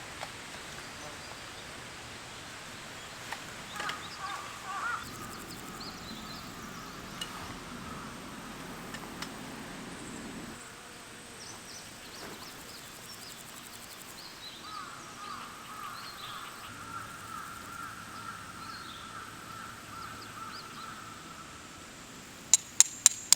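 Outdoor ambience with birds calling now and then. Near the end comes a quick run of sharp knocks, about four a second.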